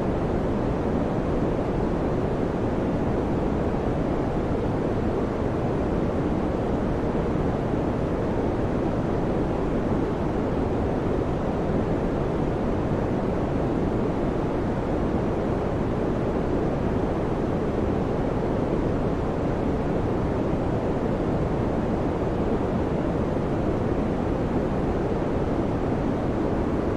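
Electric fan running steadily: an even, deep rush of air with no hum, rattle or change in speed.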